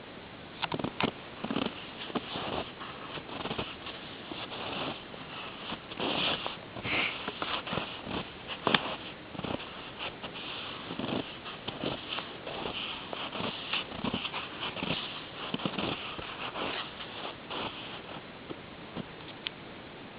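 Footsteps crunching in snow, an irregular walking rhythm of about two steps a second that stops near the end.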